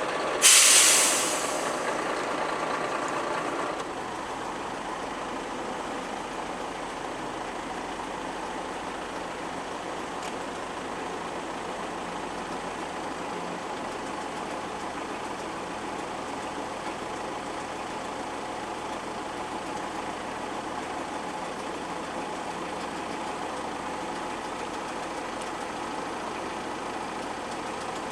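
Steady vehicle engine and road noise heard from inside a car in a ferry boarding queue, with a loud hiss about half a second in that fades over a second, and busier noise until about four seconds in.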